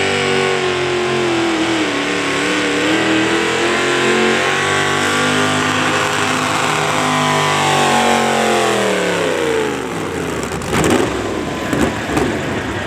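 A pulling vehicle's engine running hard at high revs under load, its pitch wavering, then falling steeply about eight seconds in as the throttle comes off, and settling into a rough, uneven low idle.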